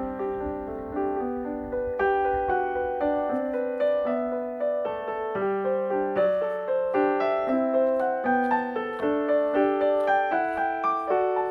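Background piano music: a slow, gentle melody of sustained notes over held lower notes.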